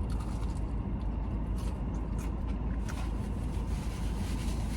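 Steady low rumble of a running vehicle, with a few faint soft clicks.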